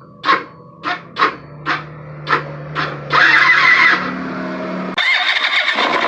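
Italika WS-150 scooter's electric starter cranked in about six short stabs, then one longer one, each with a harsh grinding clash like two metals colliding: the sign of a failing starter bendix. The engine then runs briefly, and about five seconds in the sound cuts abruptly to a denser, steadier running noise.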